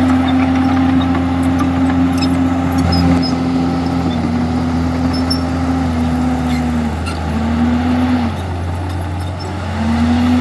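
Komatsu D51EX crawler bulldozer's diesel engine running under work, with a steady hum whose pitch dips several times and briefly drops out twice in the second half. The overall level sags near the end. Scattered light clicks and clinks sound over the engine.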